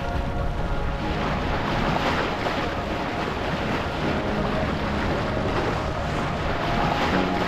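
Wind buffeting the microphone over the rush of water along a sailboat's hull, a steady noise with no single event standing out.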